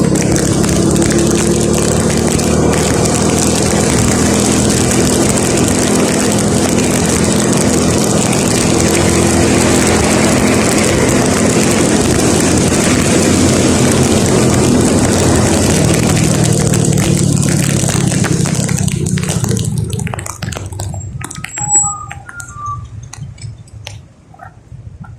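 Vehicle driving on a rain-wet road, a steady mix of engine hum and tyre and rain noise. Near the end it falls away abruptly to a much quieter stretch with a few small clicks and drips.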